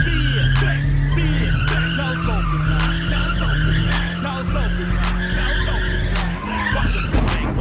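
Car tyres squealing in a sustained slide, a wavering screech that holds for several seconds, over a music track with a steady beat.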